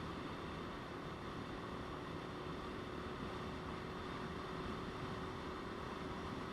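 Motorcycle riding at a steady speed: an even rush of wind and road noise with a faint, steady engine hum under it.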